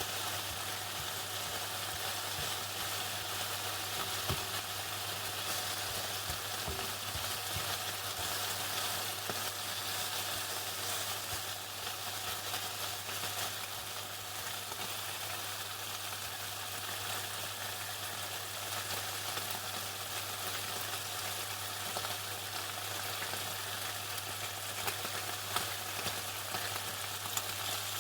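Chicken frying in hot oil: a steady, dense sizzle and crackle with scattered small pops, over a constant low hum.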